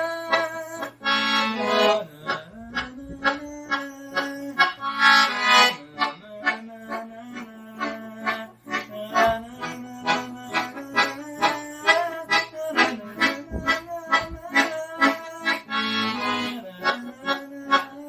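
Solo accordion playing a forró tune: a steady run of short, separate melody notes over held bass notes, with a few brief, fuller chords swelling in between.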